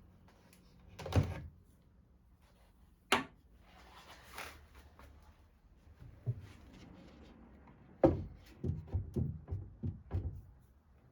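Knocks and thuds of old wooden drawers being handled: single knocks about a second in and at three seconds, then a quick run of knocks from about eight seconds in.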